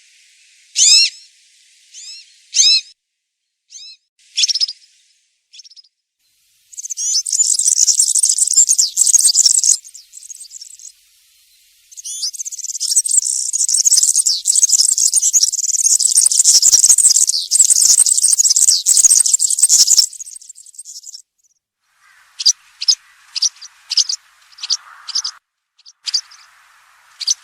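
European serin singing its fast, high, jingling song: a burst of about three seconds, then a longer one of about eight seconds, with scattered short chirping calls before them. Near the end comes a run of short, sharp chirps.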